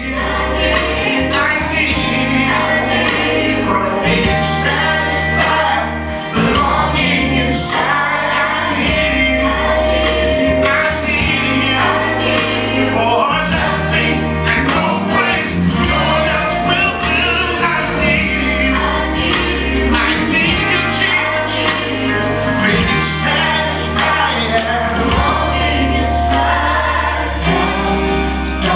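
Gospel worship music: a choir singing over instrumental backing, with deep held bass notes that change every couple of seconds.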